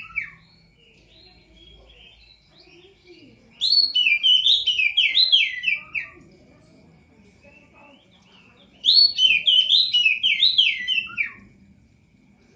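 Songbird singing two loud phrases several seconds apart, each a quick run of about a dozen down-slurred whistled notes lasting two to three seconds; the end of another phrase falls right at the start. A faint steady high tone continues between phrases.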